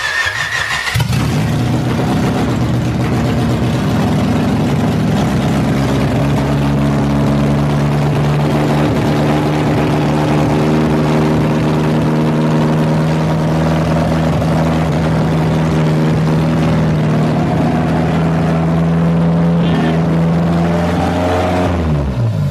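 A Honda H-series DOHC VTEC four-cylinder on open headers catches about a second in and runs at a steady, high idle, insanely loud. The high idle comes from a vacuum leak: the wrong idle air control valve leaves a hole into the intake. Near the end the engine is shut off and winds down.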